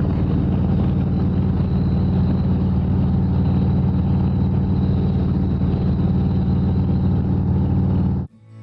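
Harley-Davidson Road Glide's V-twin engine running steadily at cruising speed, with wind and road noise over it. It cuts off abruptly near the end, giving way to faint acoustic guitar music.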